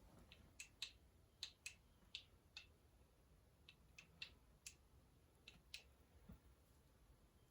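Faint, irregular light clicks, about a dozen, as small metal transmission parts are handled and fitted during engine assembly.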